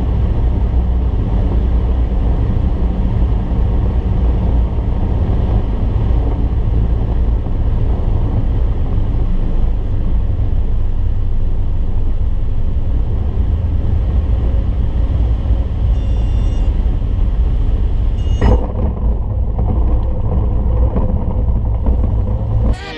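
Cessna 152 engine and propeller heard from inside the cockpit, a loud steady drone. A brief click about eighteen and a half seconds in.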